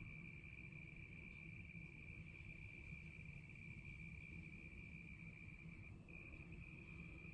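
Crickets calling in one steady, unbroken high trill, with a short break about six seconds in, over a faint low background rumble.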